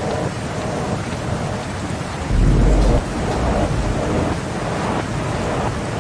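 Steady rain with rolling thunder. About two and a half seconds in there is a louder, deep thunder rumble lasting about half a second.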